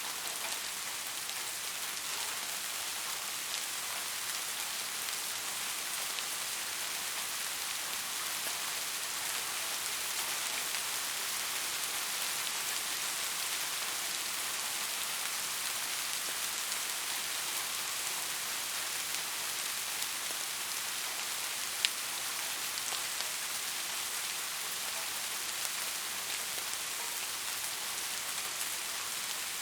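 Steady rain falling, an even hiss with faint scattered drop ticks and one sharper tap about two-thirds of the way through.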